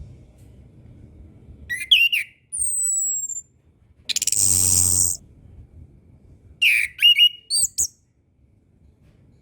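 Chestnut-capped thrush (anis kembang) singing: quick sharp whistled phrases, a high falling whistle, then a loud harsh buzzy note about a second long midway, followed by another burst of rapid twisting notes.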